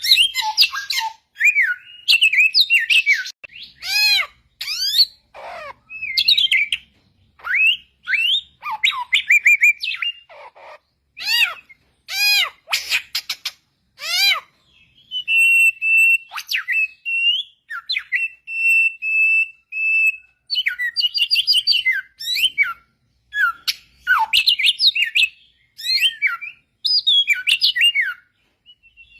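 A samyong bird singing a varied run of loud whistled phrases with quick rising and falling sweeps. Near the middle it holds several steady, level whistles before going back to fast, tumbling phrases.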